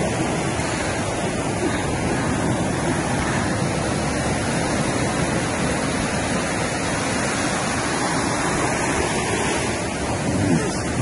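Steady wash of ocean surf on a beach, with wind on the microphone.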